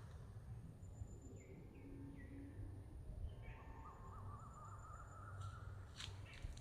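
Faint birdsong: a few short calls, then a warbling trill starting about four seconds in, over a low steady rumble. A couple of sharp clicks come near the end.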